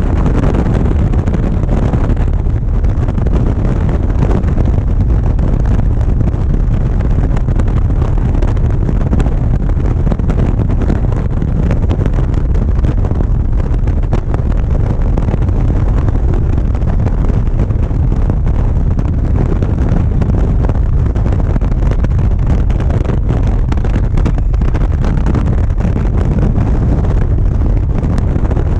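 Steady wind rushing over the camera microphone on a moving motorcycle, mixed with engine and road noise, loud and low.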